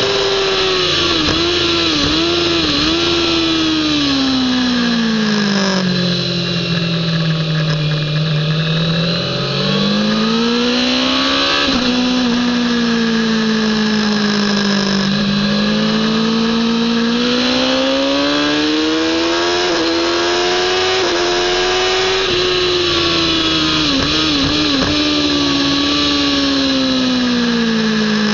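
Kawasaki ZX-10R inline-four sportbike engine at racing revs, heard from the bike with wind rushing over it. The engine note drops in quick steps under braking and downshifting near the start and again late on, sinks low through a slow corner, and climbs again under acceleration.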